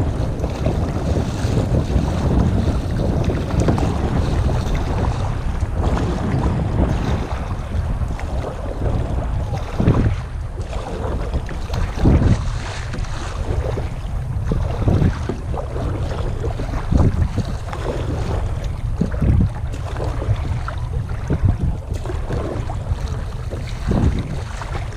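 Wind buffeting the microphone as a low, steady rumble on the water, with short louder surges every two seconds or so in the second half.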